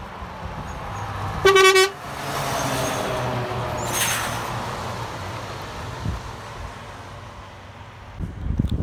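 A passing truck's horn gives one short, loud blast about a second and a half in, then the truck's engine drones past with a brief rush of noise about four seconds in.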